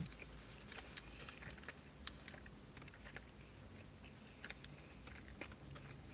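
A man chewing a mouthful of burger with his mouth closed: faint, irregular wet clicks and smacks of the mouth.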